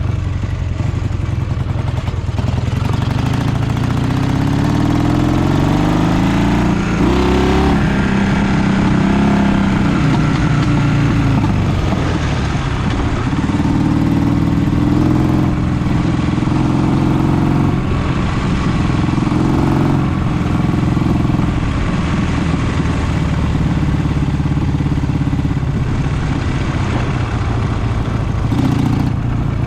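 Dnepr MT-11 motorcycle's flat-twin engine running under way with no stall, its pitch rising as it revs up a few seconds in, then rising and falling with the throttle.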